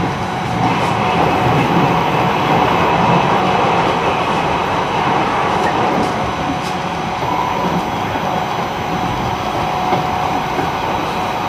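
Running noise of a JR East E129-series electric train with Toyo IGBT inverter drive, heard from inside the motor car while cruising: a steady rumble of wheels on rail with a constant traction-motor hum and a few faint rail-joint clicks.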